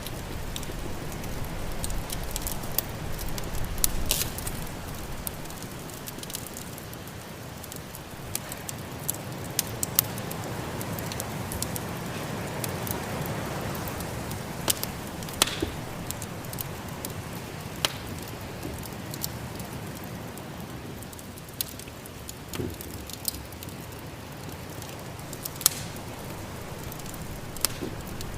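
Wood fire burning in a fireplace: irregular sharp crackles and pops over a steady low hiss and rumble, which may include storm wind.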